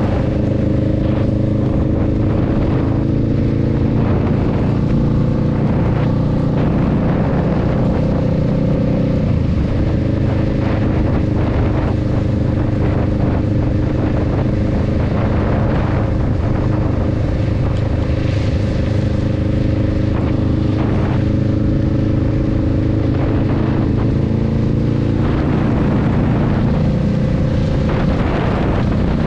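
Honda Rebel 500's parallel-twin engine running steadily while the motorcycle is under way on wet road, with small changes in engine pitch about nine seconds in and again near twenty-five seconds.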